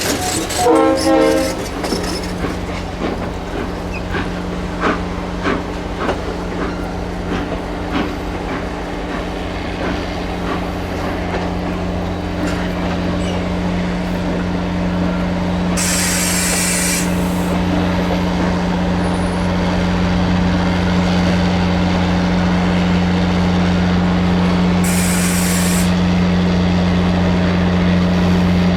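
A train running, with a short pitched toot about a second in and a steady low hum that slowly grows louder. Two brief bursts of hissing come partway through.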